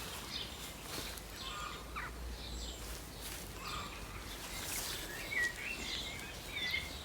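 Quiet garden ambience: a low steady rumble with a few faint bird chirps, the clearest about five seconds in.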